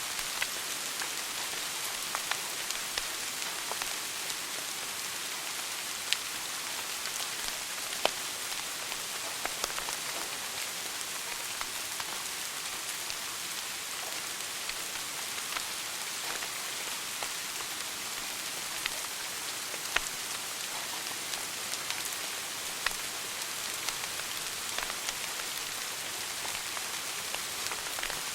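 Wood fire burning in a fireplace: a steady hiss with scattered sharp crackles and pops, two of them louder, about eight and twenty seconds in.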